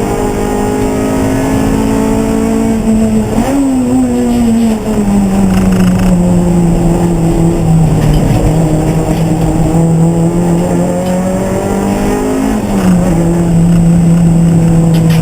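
Race car engine running hard. Its note drops twice, about three seconds in and again near the end.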